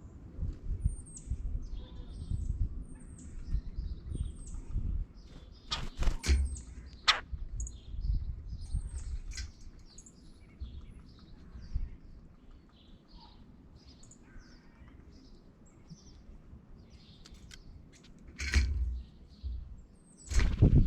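Small songbirds chirping: many short, high notes, some sliding down in pitch, repeated throughout. A low rumble runs underneath, and a few sharp knocks stand out, two close together about six seconds in and two more near the end.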